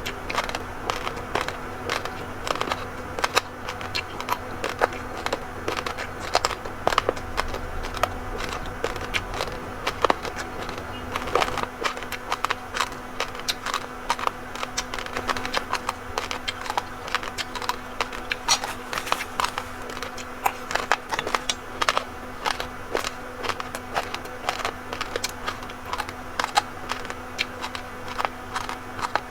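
Close-miked crunching of raw, uncooked rice grains being chewed: a dense, irregular run of sharp crunches, several a second, over a faint steady hum.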